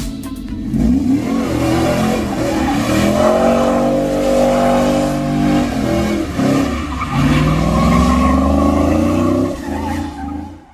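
Car engine revving repeatedly with tyres squealing, a burnout sound effect. The revs climb again around seven seconds in, and the sound fades out at the very end.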